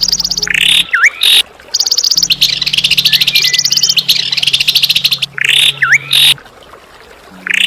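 Songbird calls in a 'masteran' training recording: fast, high, rattling chatter trills and a sharp swooping call, the pattern repeating about every five seconds. A low steady hum comes and goes underneath.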